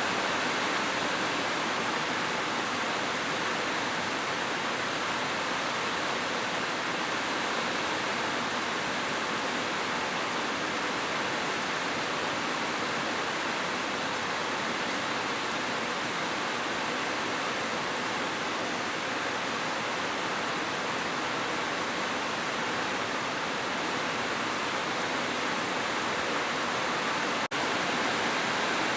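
Heavy rain falling steadily as a dense, even hiss, with a split-second break near the end.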